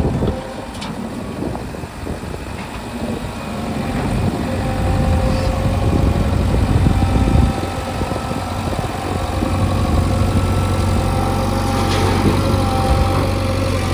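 Heavy diesel engine running unevenly, then settling into a steady idle about seven and a half seconds in.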